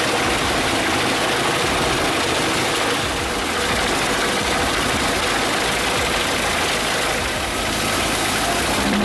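Pezzolato PTH 900 wood chipper running: a loud, steady engine and machine noise.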